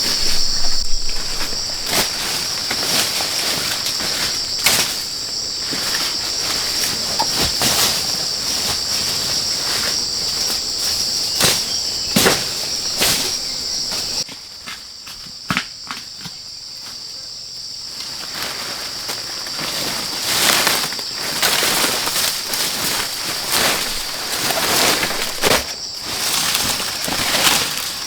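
Steady high-pitched drone of insects in the forest, with irregular knocks, crunches and rustles scattered over it.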